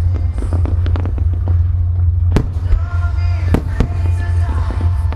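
Aerial firework shells bursting with sharp bangs, the loudest about two and a half seconds in and twice more close together near four seconds, amid lighter crackling and a steady low rumble. Music plays along with the bursts.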